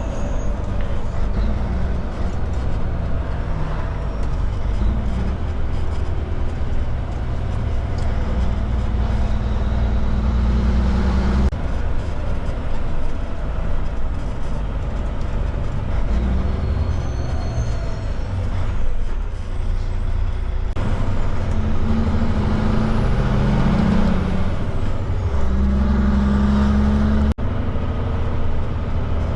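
Heavy truck's diesel engine running steadily. Its sound changes abruptly three times.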